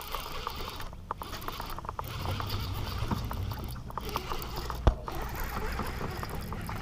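Fishing reel being cranked while a hooked fish is brought in from a kayak: a run of small irregular mechanical clicks and rattles, with one sharp knock a little before the end.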